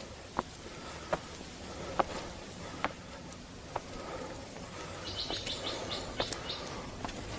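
A bird calling a quick run of high chirps for about a second and a half past the middle. Under it, sharp taps come about once every second.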